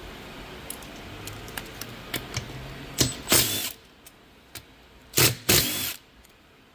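Ratchet wrench working two 10 mm bolts out of a manual transmission case: scattered ticks, then two loud half-second runs of rapid clicking about two seconds apart.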